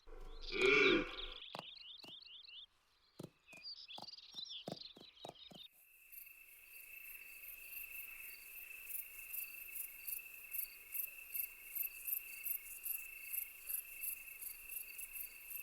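Crickets chirping at night: a steady high trill with regular pulses about twice a second, coming in about six seconds in. Before that, a few faint clicks and a brief high warbling call.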